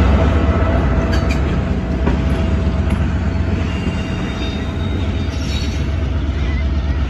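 Diesel locomotive and passenger cars rolling slowly past, the locomotive's engine running with a steady low rumble, with faint wheel squeal from the rails.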